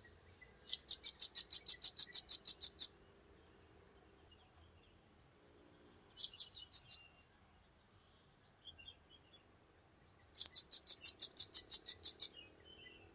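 Recorded bird call: a fast series of sharp, high chirps repeated in three bursts. The first and last bursts last about two seconds each; a short burst of four or five chirps falls in between.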